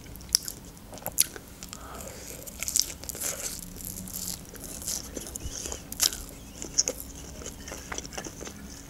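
Close-miked chewing and wet mouth sounds of a person eating omelette off a fork, with scattered small clicks and smacks.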